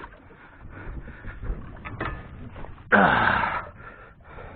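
Handling noise while working a fishing rod and reel on a small boat: scattered clicks and knocks, with a loud, breathy vocal grunt about three seconds in.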